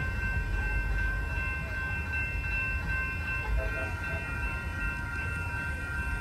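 Amtrak passenger train running past with a steady low rumble, a steady high whine sounding over it throughout.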